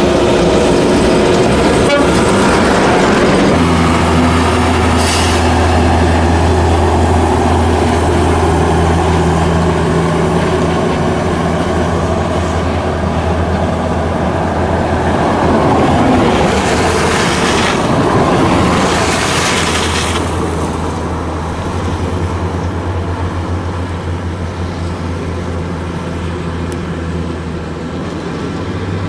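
Heavy haul trucks' diesel engines running on a haul road as a steady low drone, with louder swells of engine and tyre noise about two-thirds of the way through as trucks pass.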